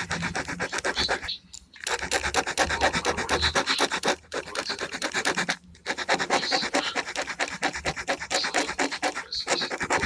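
Gel pen scratching across paper in rapid back-and-forth strokes, filling in colour. The strokes come in runs of a few seconds with brief pauses between them.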